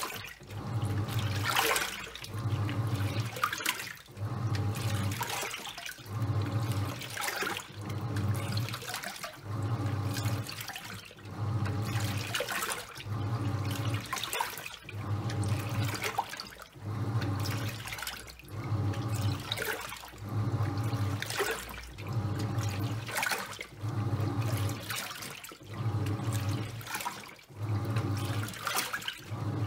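Top-loading washing machine agitating a load of towels in water: the pulsator motor hums in regular bursts about every second and a half as it turns one way and then the other, with the water and towels sloshing between the bursts.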